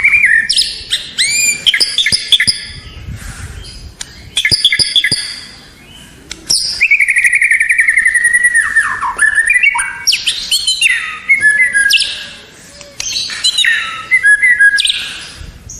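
White-rumped shama singing a long, varied song of loud whistles, chirps and fast trills, delivered in phrases with brief pauses between them.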